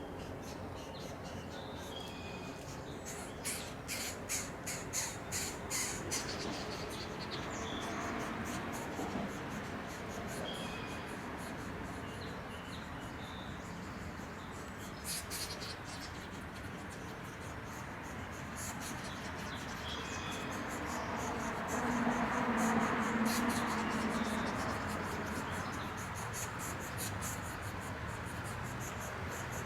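Birds calling now and then over a steady hiss, with a quick run of about seven sharp knocks a few seconds in and more scattered knocks later.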